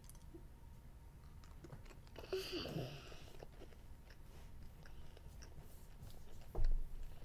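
A child chewing a mouthful of jelly beans, with small wet mouth clicks throughout. A brief voice sound comes about two and a half seconds in, and a low thump comes near the end.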